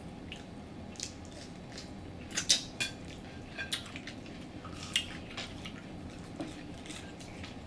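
Eating and food-handling sounds from a meal of Popeyes fried chicken: scattered short crunches, mouth clicks and the clink and rustle of food containers. The loudest cluster comes about two and a half seconds in, with another sharp one near five seconds.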